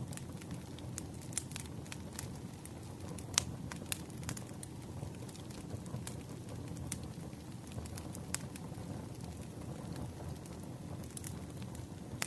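Wood campfire burning: a steady low rush with irregular sharp crackles and pops, one louder pop about three seconds in.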